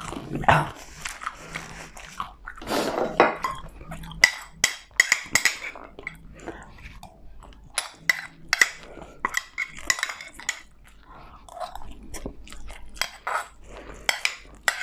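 Biting and chewing crispy food, with many sharp, irregular crunches.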